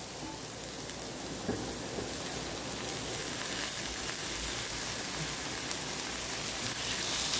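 Onions and garlic frying in oil in a kadai, giving a steady sizzle.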